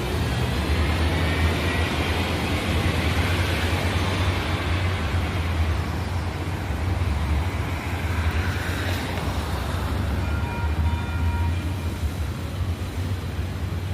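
Light rail train running by: a steady rolling rumble with a faint falling whine in the first second, swelling about two-thirds of the way through, with thin high tones like light wheel squeal in the last few seconds.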